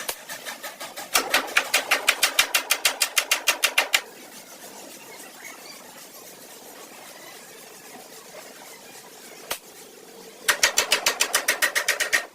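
Car engine being cranked by its starter motor in two bursts, one of about three seconds and one of about two seconds, each a fast, even clacking at about nine a second. It does not catch and run.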